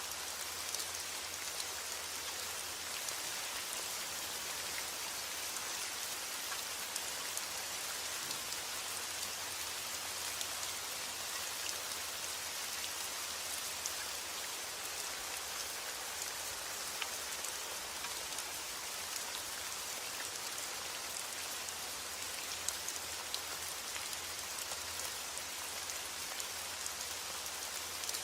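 Steady heavy rain falling on a roof: a dense, even hiss with scattered sharper drop ticks.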